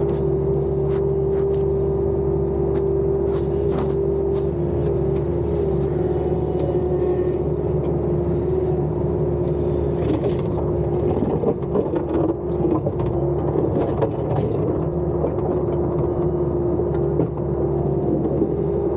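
Bobcat skid-steer loader running steadily under work, with a strong steady whine over the engine and scattered short knocks and clatters, busiest in the second half.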